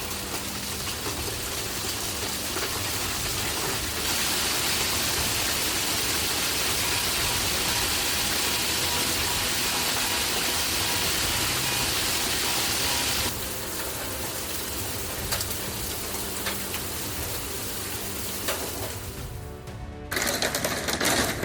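Golf-ball-sized hail pounding down, a dense, steady din of hailstones striking. It gets louder about four seconds in, drops back about thirteen seconds in, and changes again near the end.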